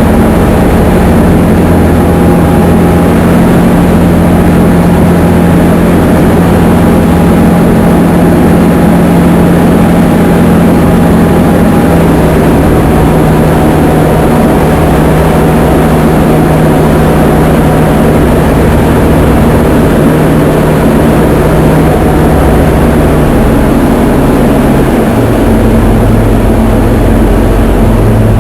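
Diamond DA20 light aircraft's piston engine and propeller running steadily and loud, its pitch stepping down in a few stages as power is reduced.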